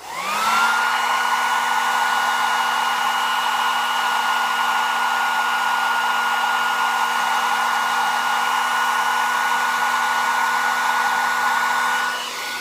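Handheld hair dryer switched on low and running: it spins up within about half a second to a steady rush of air with a steady whine. It drops a little in level near the end.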